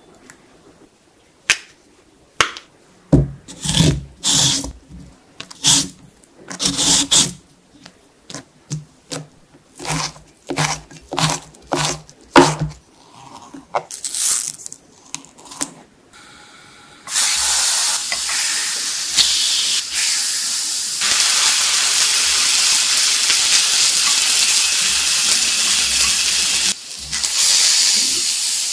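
Irregular sharp taps and knocks of food being handled and prepared on a cutting board. About halfway through, these give way to a loud, steady sizzle of food frying in a pan.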